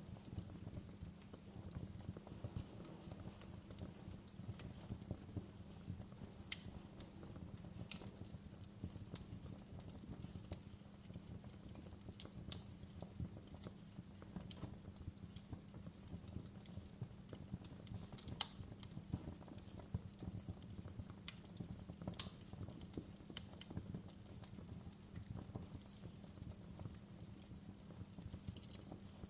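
Wood fire in a fireplace crackling: irregular sharp pops and snaps, a few louder than the rest, over a steady low hum.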